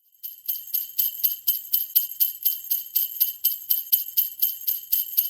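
Jingle bells shaken in a steady rhythm, about four shakes a second, with a bright high ringing.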